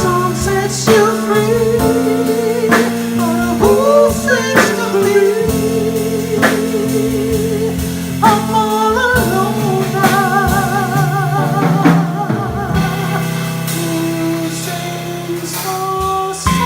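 A singer holding long notes with a wide vibrato, over a live band with drum hits and steady accompanying chords.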